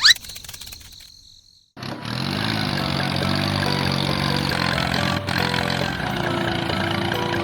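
A short rising chirp, then after a brief pause an engine-like sound starts abruptly about two seconds in, swells in pitch and then runs steadily.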